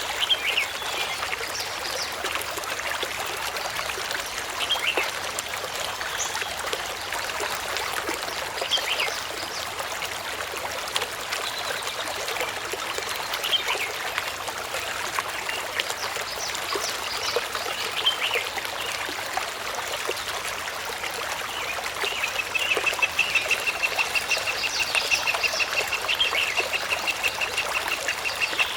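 Steady trickling of running water with scattered short bird calls. About three-quarters of the way in, a fast, even run of repeated high notes starts and keeps going.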